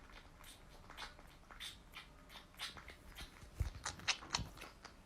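A pet chewing, faint: a run of small, irregular crunching clicks, with two louder thumps a little past the middle.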